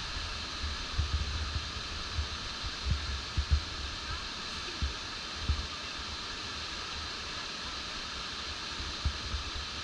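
Steady rush of stream water running over rocks, with irregular low thumps on the microphone, mostly in the first half.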